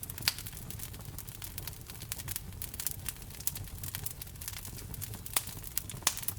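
Wood fire burning in a fireplace, crackling steadily over a low rumble of flame, with a few sharper pops, the loudest about a third of a second in and two more near the end.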